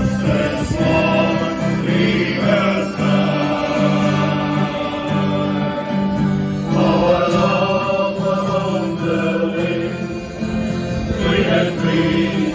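A shanty choir singing a sea shanty.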